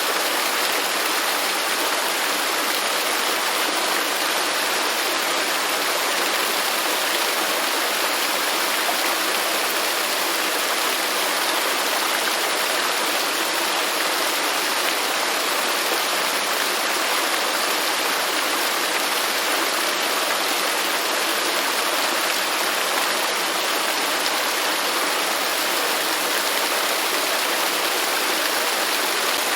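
Waterfall: falling water rushing in a steady, even hiss, with little deep rumble.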